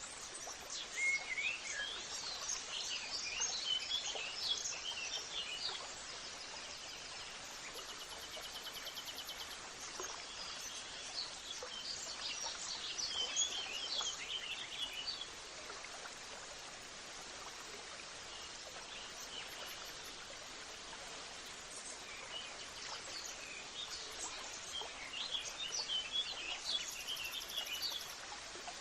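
Songbirds chirping and twittering in quick high notes, in three spells of several seconds each, over a steady background hiss.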